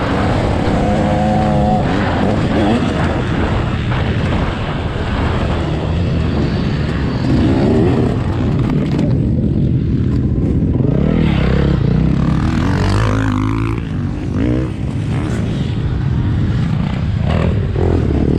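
Dirt bike engine revving up and down, its pitch rising and falling again and again as the throttle is worked.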